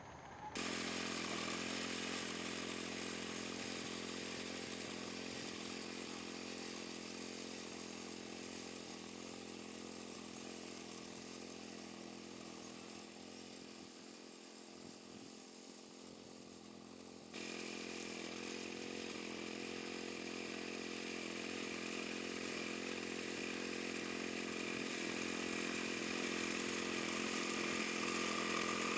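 Wing mower's small gasoline engine running steadily while cutting grass. It comes in abruptly at the start and slowly fades over the first half. About 17 seconds in it jumps louder, then keeps growing louder.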